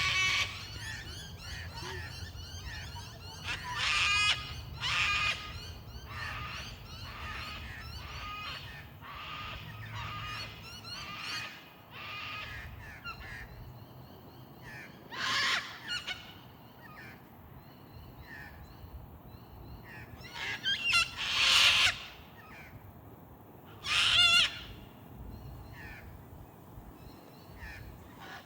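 Two sulphur-crested cockatoos screeching: loud, harsh calls in bouts every few seconds, with quieter calls in between, the loudest near three-quarters of the way through.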